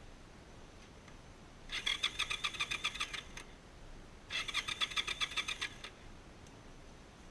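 Cruiser motorcycle's electric starter cranking the engine in two tries of about a second and a half each, with a rapid, even chugging and the engine not catching. The rider takes it to be flooded from the bike lying upside down.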